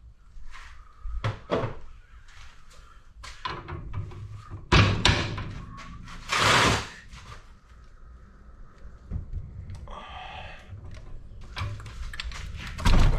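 Workshop handling noise: a string of metal knocks and clatters from tools being picked up and set down, with a short sliding sound, like a tool-box drawer, a little after the middle and heavy thuds about five seconds in and at the very end.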